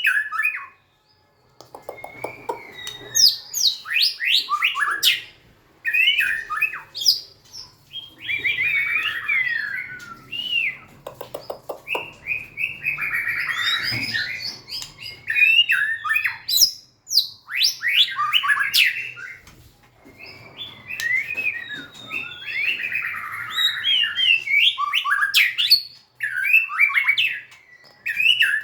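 White-rumped shama singing a long, varied song: phrases of quick sweeping whistles broken by short pauses, mixed with denser scratchy chattering passages.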